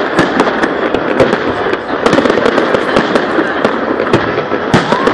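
Fireworks salute: a dense, unbroken stream of bangs and crackles from bursting shells.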